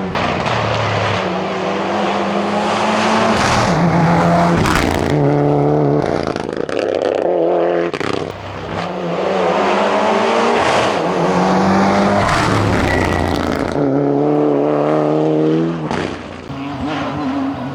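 Mitsubishi Lancer Evo VII's turbocharged four-cylinder engine racing hard, its pitch climbing and dropping back again and again as the driver shifts and lifts through the corners.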